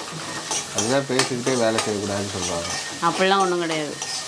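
Sliced onions and garlic cloves frying in oil in a pan, stirred with a steel ladle: a sizzle under scraping strokes, with several short squeaky pitched sounds.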